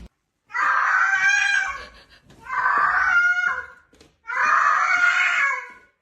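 A cat yowling: three long, loud, drawn-out screaming cries, each lasting over a second.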